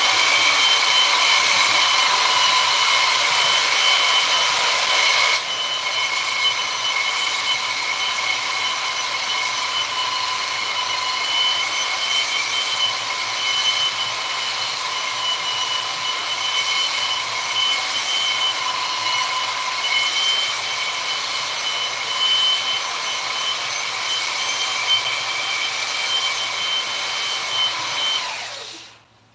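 Electric rotary power tool running steadily on wood with a high, even whine; it gets a little quieter about five seconds in and cuts off shortly before the end.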